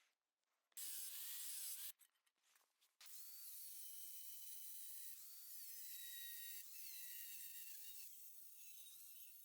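Steady hissing metalworking noise with a wavering whine: a short stretch about a second in, then a longer run from about three seconds in.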